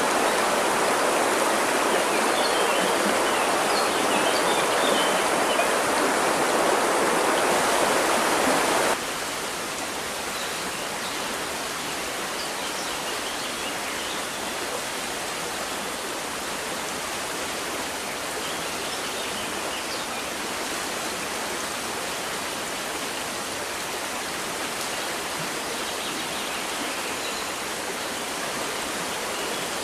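River water rushing steadily, louder for the first nine seconds, then suddenly dropping to a softer rush. Faint bird chirps come through a few times.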